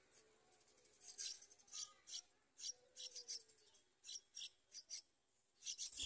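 Yellow-vented bulbul nestlings begging for food with a series of short, high-pitched cheeps, about a dozen starting about a second in.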